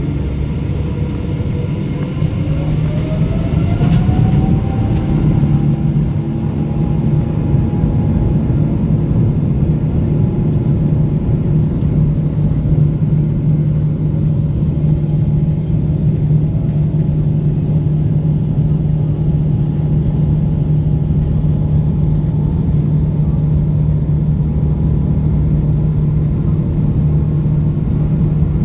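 Boeing 777-200's jet engines spooling up to takeoff thrust, heard inside the cabin. A rising whine over the first few seconds gives way to a loud, steady hum and rumble from the takeoff roll.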